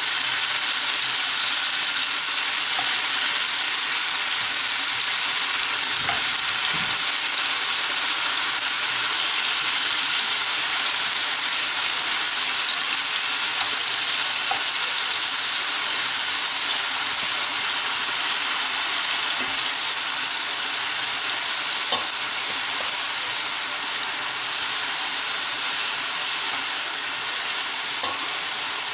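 Food frying in hot oil in a pan: a steady, dense sizzle, with a few faint light clicks.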